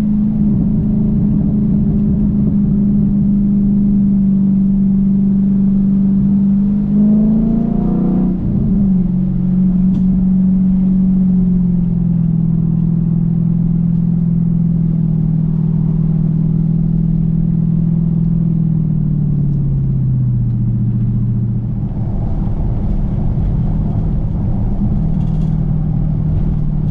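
Dodge Challenger's engine and exhaust cruising at steady revs, with a brief rise and drop in pitch about eight seconds in, like a gear change. About two-thirds of the way through the revs ease down and settle at a lower steady note.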